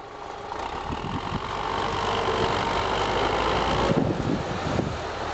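A heavy vehicle's engine running, fading in at the start; the low rumble drops away and the sound changes about four seconds in.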